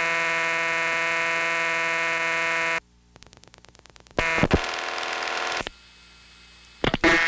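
Telephone line audio from a rural Bell System exchange: a harsh, buzzy dial tone, then a quick string of rotary-dial pulse clicks about three seconds in, then a buzzy ringing tone on the line. Near the end a loud buzz comes back as the operator answers: the dial-tone sound sent to tell her the call is from a coin phone.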